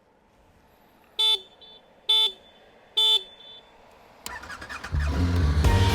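Three short beeps of a motorcycle horn about a second apart, used as a signal to sync the cameras. Background music fades in near the end.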